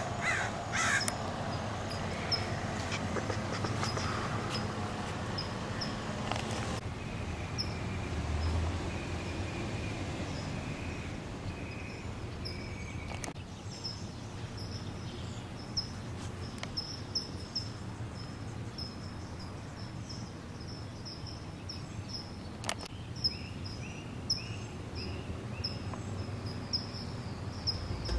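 Birds calling in the background, with runs of short repeated calls over a steady outdoor hum. A few sharp clicks stand out, about a second in, near seven seconds, midway and again later.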